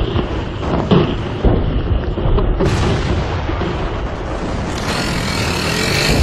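Artillery barrage heard in an old field recording: a few sharp booms of guns and shell bursts in the first second and a half, over a continuous rumble of gunfire that grows fuller from about halfway through.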